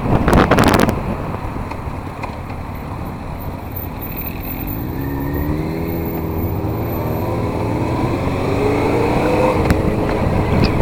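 Motorcycle engine under way, its pitch rising steadily as it accelerates through the revs over the middle of the stretch, with wind rushing over the microphone. A loud burst of wind noise in the first second.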